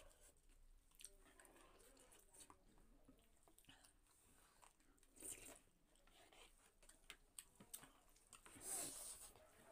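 Quiet close-up eating sounds: chewing, with small clicks throughout. There are two louder, hissy noises, one about five seconds in and one near the end.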